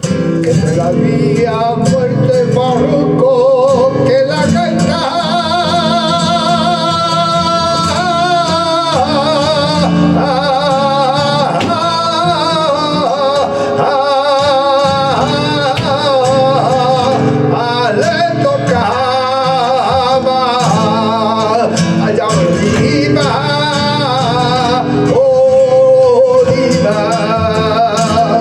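Flamenco singing in a farruca: a singer holds long, wavering, ornamented lines over flamenco guitar.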